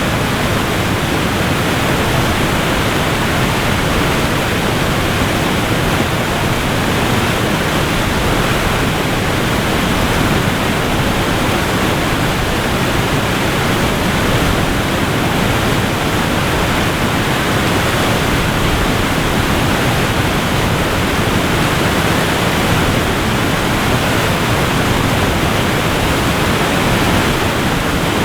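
Waterfall: water falling and rushing in a loud, steady roar with no breaks.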